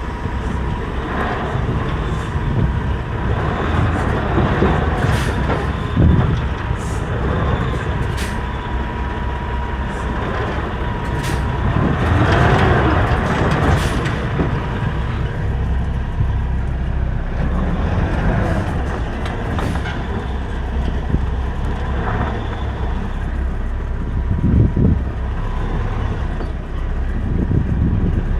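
Semi-truck running, with a continuous low engine and road rumble. A faint steady high tone runs through the first half, and a couple of short thumps stand out.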